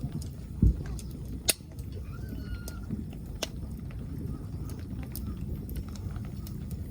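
Wood fire crackling in a Solo Stove, with scattered small ticks and two sharp pops, over a steady low noise of rain. A dull thump comes about half a second in.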